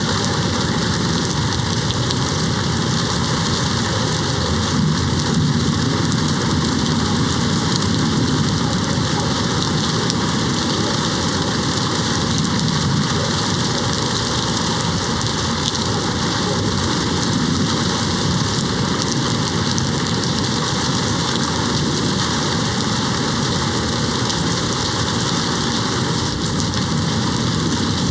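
Steady heavy rain hitting a window, with low rumbles of distant thunder swelling a few seconds in and again near the middle.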